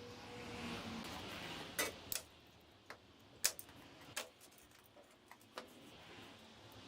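Irregular light clicks and taps, about seven of them spaced unevenly, over a faint steady hiss that fades after the first two seconds.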